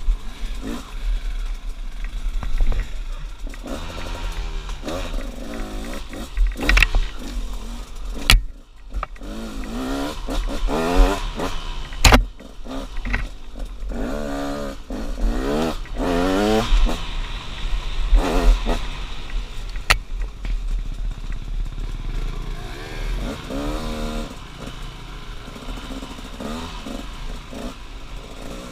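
2016 KTM 200 XCW's two-stroke single-cylinder engine revving up and down over and over as the bike is ridden, with a few sharp knocks along the way.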